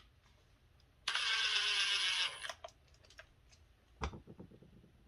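Power screwdriver running for about a second, driving a screw into the refrigerator's fan housing, its pitch dropping slightly as the screw seats; a sharp knock follows near the end.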